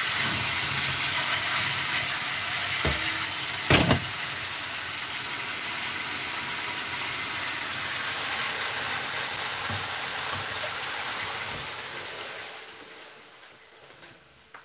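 Pineapple chunks frying in butter and powdered sugar in a pan, a steady sizzle. A sharp knock about four seconds in, with a fainter one just before it; the sizzle fades away over the last two seconds.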